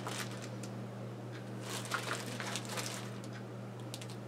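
Soft rustling and small clicks of something being handled, over a steady low hum.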